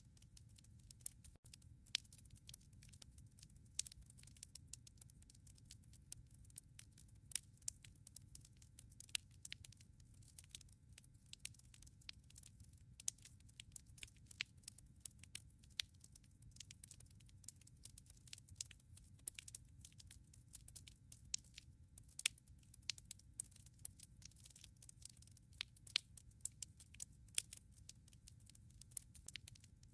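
Wood logs burning in a fireplace: sharp, irregular crackles and pops, several a second, over a soft low rumble of the fire.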